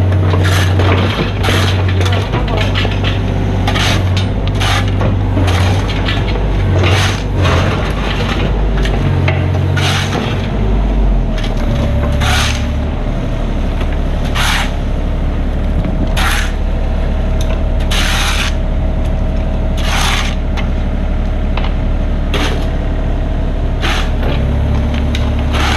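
Mini excavator's diesel engine running steadily, its note shifting about halfway through, with sharp scraping or knocking strokes every second or two.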